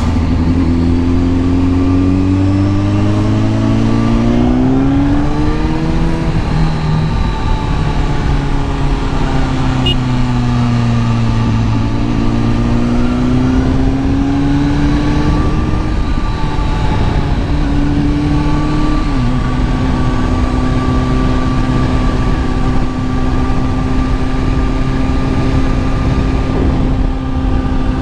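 Kawasaki ZX-10R inline-four engine under way with wind rush. Its pitch climbs over the first few seconds, eases off gradually, climbs again, and drops suddenly about two-thirds of the way in. It then runs at a steady pitch for the rest.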